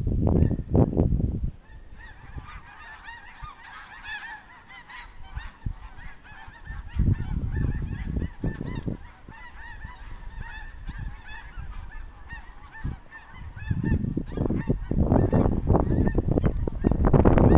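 A large flock of snow geese calling in flight, a dense chorus of many overlapping high honks. Loud bursts of low rumble come at the start, midway and again through the last few seconds.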